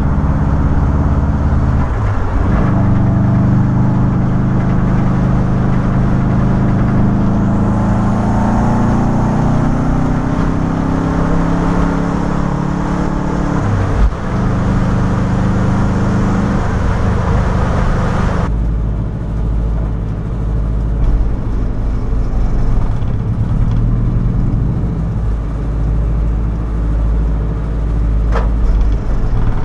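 Turbocharged Subaru WRX flat-four engine in a VW split-window bus, heard from inside the cabin, pulling under load with its pitch slowly rising. It drops briefly at gear changes about two and fourteen seconds in. About eighteen seconds in it gives way to a steadier, lower rumble.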